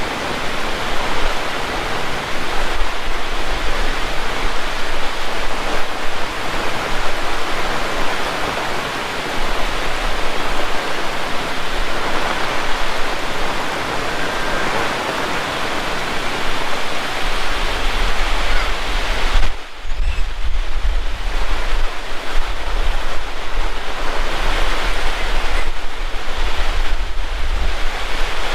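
Heavy tropical rain falling, a loud, steady hiss of rain. A low rumble, typical of wind on the microphone, comes in over the second half.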